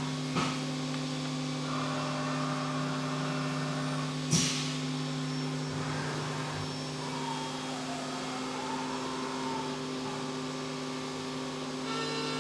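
Haas UMC-750SS five-axis CNC mill machining a part: a steady hum with a whine that rises and falls as the axes move. Two sharp clicks cut through, a small one about half a second in and a louder one about four seconds in.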